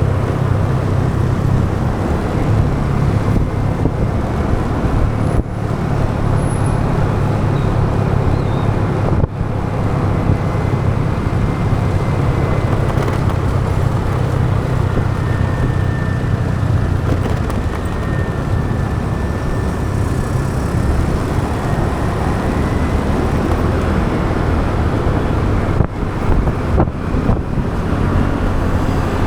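A motorbike running steadily along a road in traffic, recorded from the bike itself: a low engine hum under road and wind noise, with a few brief dips in level.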